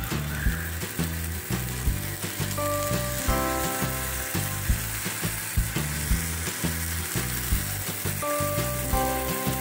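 Marinated paneer tikka pieces sizzling steadily on a hot tawa as more are laid down on it. Background music with a regular beat plays over it.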